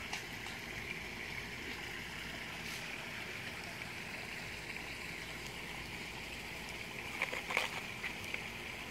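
River water running steadily, with a few short sharp knocks about seven seconds in.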